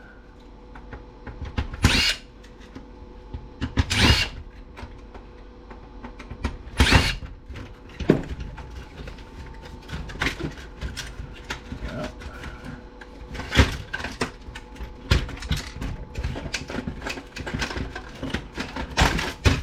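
Power screwdriver or drill spinning small screws out of a stereo's chassis in several short bursts, with small clicks and rattles of metal and plastic parts being handled between them.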